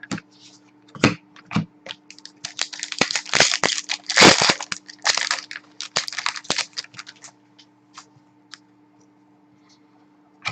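Hockey card pack wrapper being torn open and crinkled, with sharp clicks from cards and packaging being handled. The crackling is densest and loudest in the middle, with scattered single clicks before and after.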